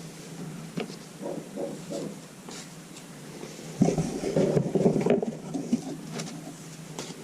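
Dogs barking, muffled, with a louder run of barks about four seconds in. A few light clicks of handling are heard as well.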